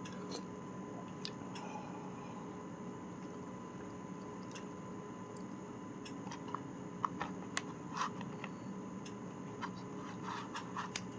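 Someone eating gamjatang (pork-bone soup): chewing sounds with scattered sharp clicks of utensils, more of them in the second half, over a steady background hum.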